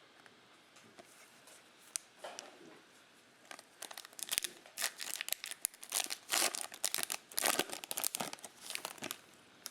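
Foil trading-card pack wrapper being torn open and crinkled: a quick run of sharp crackling from about three and a half seconds in until near the end, after a few faint clicks.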